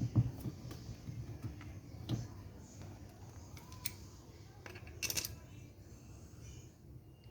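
Small parts and tools being handled during washing machine repair work: scattered light clicks and knocks, with a brief clatter about five seconds in.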